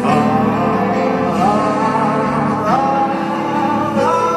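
Band music from a live pop concert between sung lines: held chords with melody notes sliding up to new pitches.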